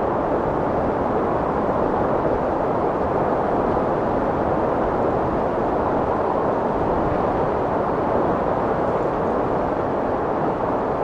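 Strong wind blowing as a steady, even rush with no distinct gusts or pauses.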